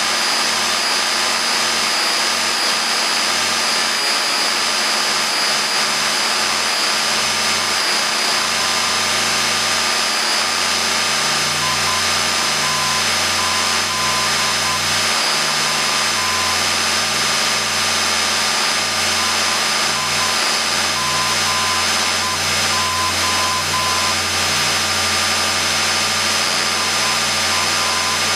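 Cessna 172M's four-cylinder Lycoming engine running at low taxi power, heard inside the cabin as a steady drone with hiss. A faint, broken tone comes and goes in the second half.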